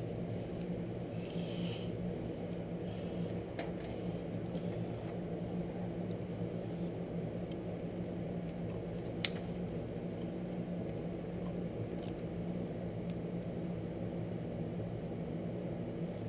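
Steady low hum with a few light clicks, one sharper click about nine seconds in.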